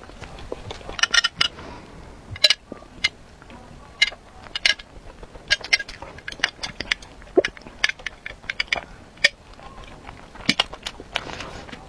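Close-miked mouth sounds of eating: chewing and swallowing, with many sharp wet clicks and smacks in irregular clusters, and a sip of milk through a straw about halfway through.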